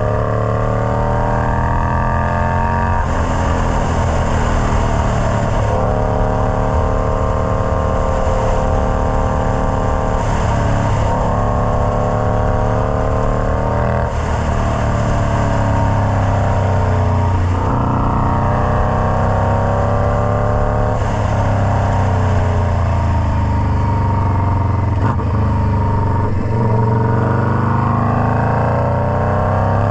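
Indian Scout Bobber's V-twin engine running loud through a Freedom Performance Combat 2-into-1 exhaust. Its pitch climbs steadily and then drops back sharply every two to three seconds, and falls off for a few seconds past the middle before climbing again.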